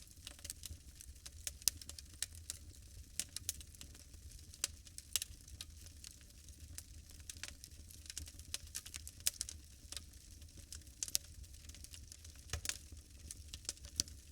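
Bonfire crackling: irregular sharp pops and snaps, a few of them louder, over a low steady rumble.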